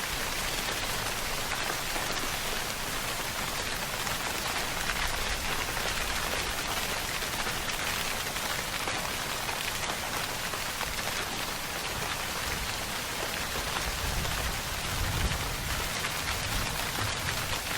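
Steady rainfall, an even hiss of many drops, with a low rumble swelling briefly near the end.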